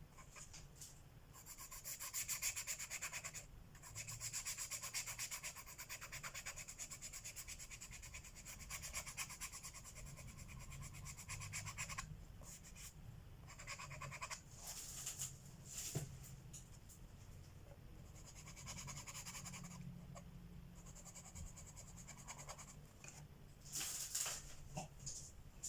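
Colored pencil shading on paper in fast back-and-forth scratchy strokes, in several runs with short pauses between them and a single light click partway through.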